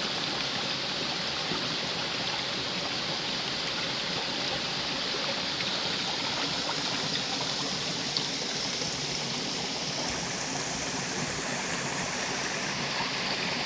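Rushing water of a waterfall and its creek, a steady, even hiss with no change in level.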